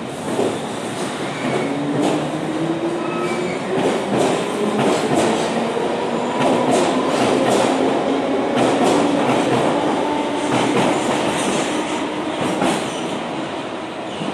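London Underground battery locomotive engineering train pulling out, its wheels clicking over rail joints while a whine slowly rises in pitch as it gathers speed. The sound swells in the middle and eases off near the end as the train moves away.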